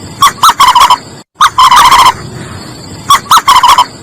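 A large bird calling in three bursts, each a rapid run of short, rattling notes. The calls sound more like a gobble than an ostrich's low boom.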